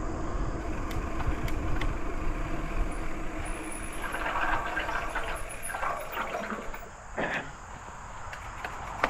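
Bicycle riding along a trail: wind buffeting the microphone with a steady low rumble and tyre noise, growing louder and rougher for a few seconds in the middle.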